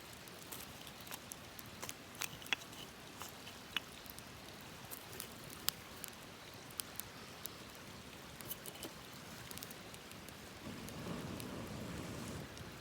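Wood campfire crackling, with irregular sharp pops and snaps over a faint hiss. About eleven seconds in, a louder steady rushing sound comes in beneath the crackle.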